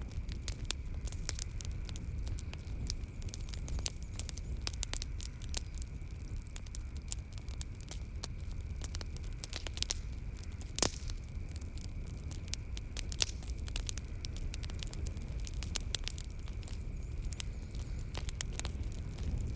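Wood fire crackling in a fireplace: irregular sharp pops and snaps over a low steady rumble of the flames, with one louder pop about eleven seconds in. A steady high chirring of night insects runs beneath.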